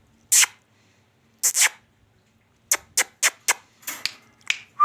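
Parrot making a run of short, sharp kiss-like smacking sounds, with a quick burst of four about three seconds in.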